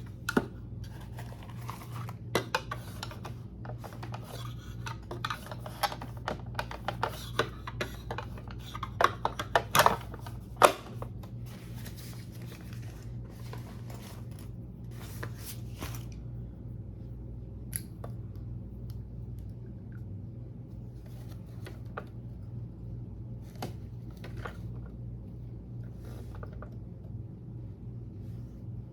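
Clinks, knocks and scrapes of dishes and utensils being handled over a steady low hum. The handling is busy through the first half, then thins to occasional clicks.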